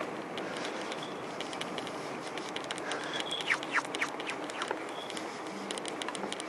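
Birds chirping, with a few quick falling calls about halfway through, over a steady outdoor hiss and a scatter of light clicks.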